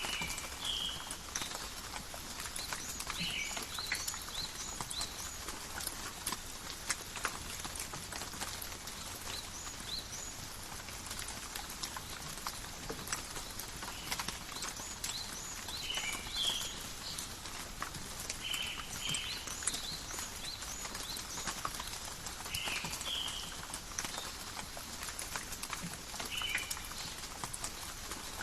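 Steady light rain in a forest, with drops pattering and dripping in many small irregular ticks. Short high chirps come in every few seconds, several of them in quick pairs.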